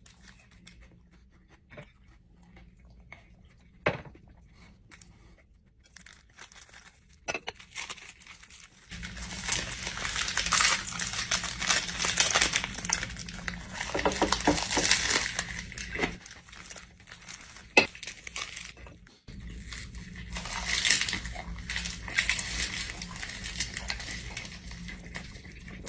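Packaging wrapper crinkling and tearing in repeated bursts, starting about nine seconds in after a quiet stretch broken by a few small clicks.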